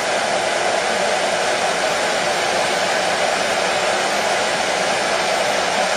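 Hair dryer running steadily, a constant whooshing rush of air with a low motor hum, used as white noise for a baby's sleep.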